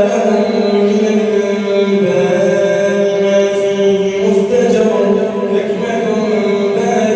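A man's voice chanting Quran recitation (tajweed), drawing out long held notes in a melodic style, with the pitch stepping to a new note about two seconds in and again past the middle.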